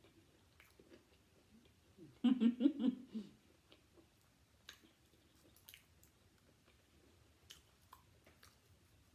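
A person chewing a bite of egg roll with the mouth closed, with small wet mouth clicks. About two seconds in there is a brief muffled vocal sound, made with the mouth full.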